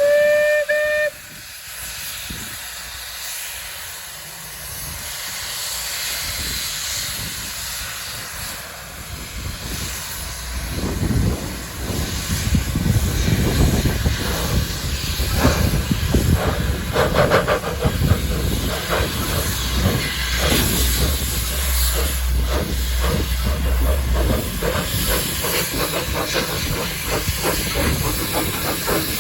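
Steam locomotive: a whistle blast cuts off about a second in, followed by steady steam hiss. From about eleven seconds in, louder rhythmic exhaust chuffing sets in as the engine works.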